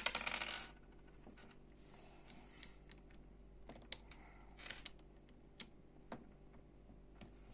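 Small plastic Lego pieces being handled: a short rattling burst at the start, then scattered light clicks as bricks are picked up, set down and pressed together.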